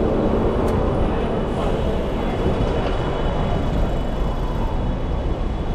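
Steady low rumble of city road traffic heard from a moving bicycle, with a faint high whine and a brief click about a second in.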